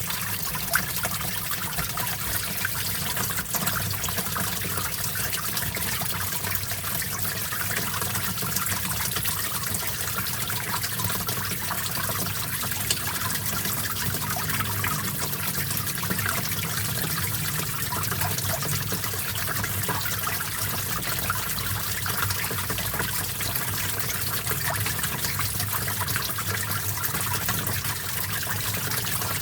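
Small stream flowing and trickling steadily over stones, with a continuous splashing, burbling sound.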